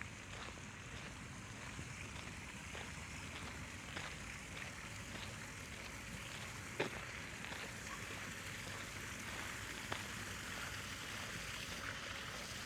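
Steady rush of running water, with faint footsteps walking at an even pace over it and a sharp click about seven seconds in.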